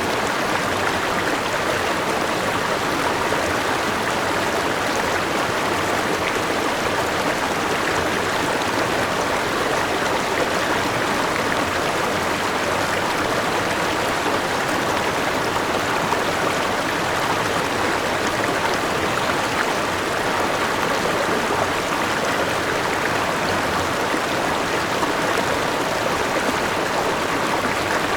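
Forest river running over rocks and a small waterfall: a steady rushing and splashing of water.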